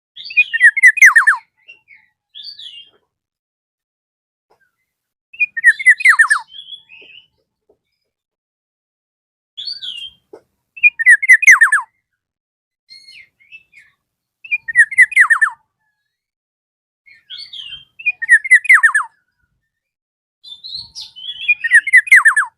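Black-naped oriole (golden oriole) singing a loud, repeated territorial call to challenge a rival. Six phrases come about four seconds apart, each a quick run of falling notes, with softer short notes between.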